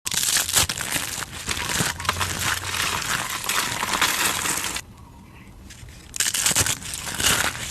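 Something brittle being crushed: a dense run of crunching and crackling, which stops for about a second and a half near the middle and then starts again.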